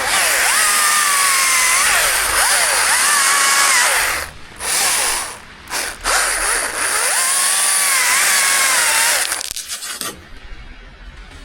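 Two-stroke chainsaw running at high revs, its pitch sagging and recovering as it loads up in a cut, with two brief dips in level about four and six seconds in. It dies away about nine seconds in, leaving faint clicking.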